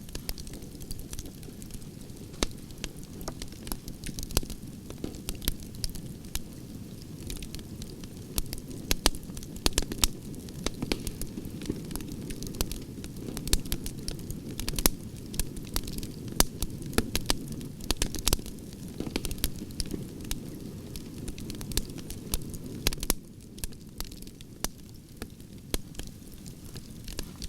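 Campfire of burning logs crackling, with frequent sharp pops and snaps over a steady low rumble of flames.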